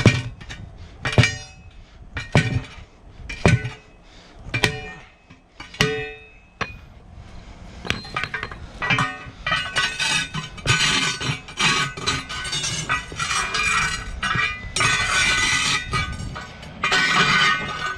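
Hammer blows on steel tire irons driving a truck tire's bead off a 19.5-inch steel rim: six ringing metal clanks about a second apart, then a busier, continuous stretch of metallic clatter and scraping as the bead comes free.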